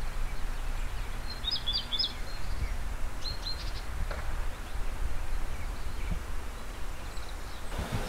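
Rural outdoor ambience: a steady low rumble with a small bird giving two short bursts of high chirps, about one and a half and three seconds in.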